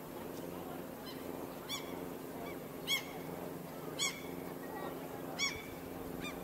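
A bird giving a series of short, sharp calls, five or six in all, roughly one a second, the loudest about three and four seconds in, over a steady low hum.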